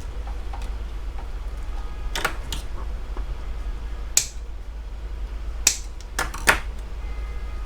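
About six scattered sharp plastic clicks from cable ties being tightened on the wiring inside a PC case, over a steady low hum.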